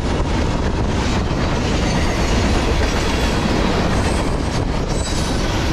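Freight cars of a mixed manifest train (tank cars, a boxcar, a flatcar) rolling past close by at speed. A loud, steady rumble of steel wheels on rail, with a few clacks.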